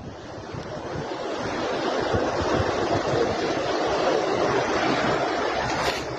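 A steady rushing of storm water and rain, with wind buffeting the microphone, swelling over the first two seconds and then holding.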